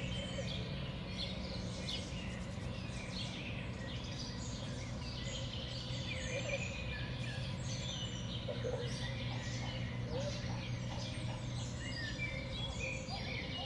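Small songbirds at a winter feeder, such as tits, sparrows and finches, chirping and calling in many short overlapping notes, over a steady low hum.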